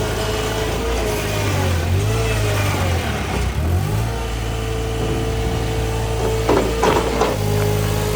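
Kubota D1703 three-cylinder diesel of a compact track loader running, its pitch dipping and recovering a few times as it takes load. A steady whine runs over the engine, and a few clanks come near the end.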